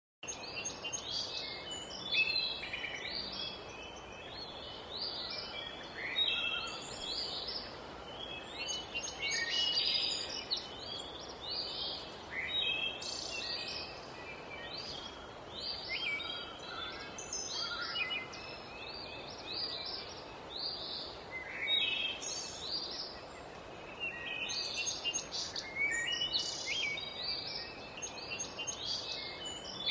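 Several birds singing at once, a dense overlapping chorus of short, high chirps and trills that comes and goes in waves, over a steady background hiss.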